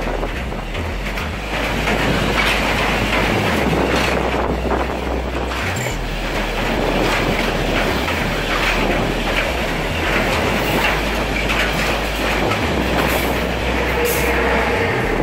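Loaded freight train of ore container wagons rolling past at close range: a steady loud rumble with the wheels clattering over the rail. Wind buffets the microphone. Near the end the trailing electric locomotive goes by with a faint steady whine.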